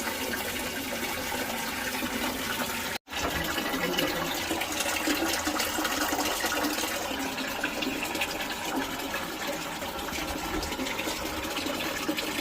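Water rushing steadily through the open filling valve into the empty Gledhill Pulsacoil water heater tank as it is filled, cut off for an instant about three seconds in.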